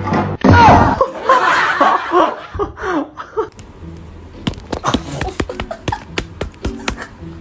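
A person laughing loudly in the first few seconds, followed by a run of sharp clicks or taps.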